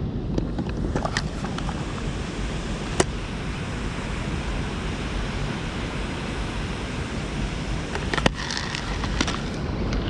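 Steady outdoor rushing noise of wind buffeting the microphone over flowing water, with a sharp click about three seconds in and another about eight seconds in.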